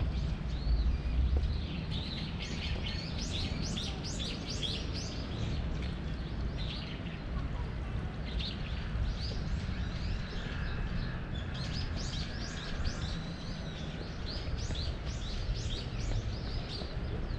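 Small birds chirping, many short high calls in quick runs, over a constant low background rumble.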